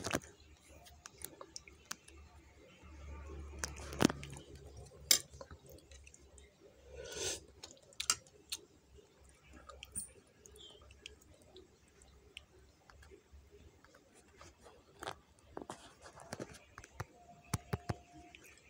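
A person eating instant noodles: quiet chewing with scattered sharp clicks of a metal spoon and fork against the bowl, two louder clicks about four and five seconds in.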